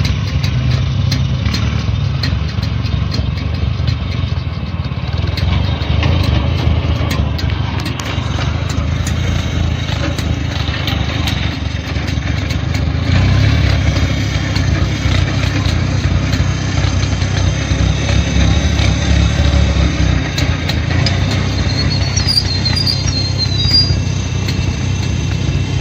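A small vehicle engine running steadily.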